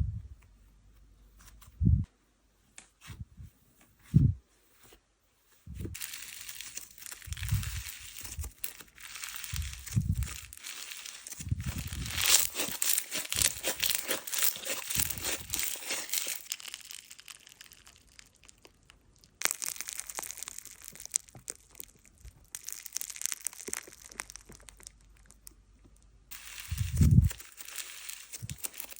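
Slime being played with by hand: a few soft low pops and presses at first, then long stretches of sticky crackling and crinkling, with another soft pop near the end.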